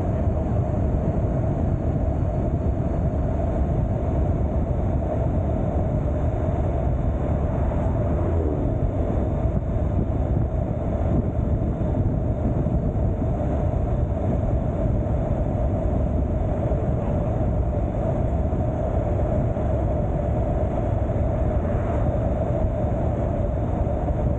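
Motorcycle riding along at a steady speed: the engine and road noise drone evenly, with heavy wind rumble on the camera's microphone.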